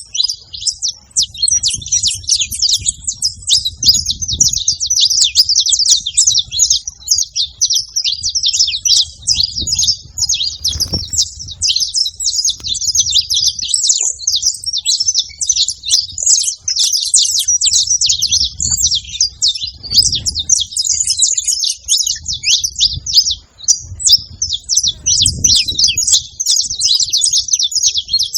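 Saffron finch song: a rapid, unbroken stream of high chirps and trills. A faint low rumble comes and goes underneath.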